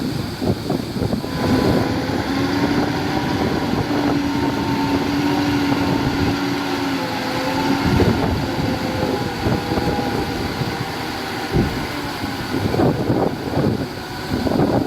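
Diesel engine of heavy earthmoving machinery running with a steady hum that fades about halfway through, with wind buffeting the microphone.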